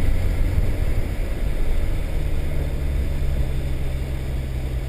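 Honda S2000 on the move heard from inside the cabin: the four-cylinder engine's low drone, which settles into a steady note about two seconds in, under a rushing hiss of tyres on the wet track.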